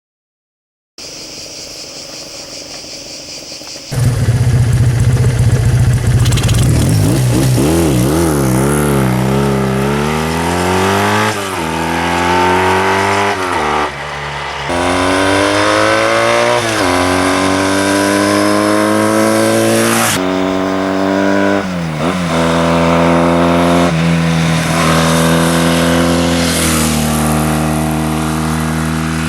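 1973 Laverda SF 750's parallel-twin engine running at low revs, then pulling away and accelerating up through the gears: the engine note climbs steadily and drops sharply at each of several gear changes.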